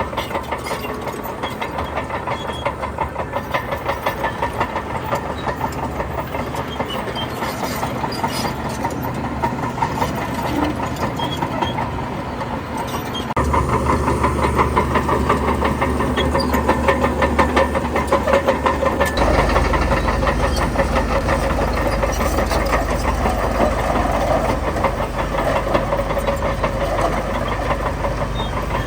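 Heavy diesel construction machinery running, the engine giving a fast, even chatter. It gets louder and deeper about halfway through, as if working harder or coming closer.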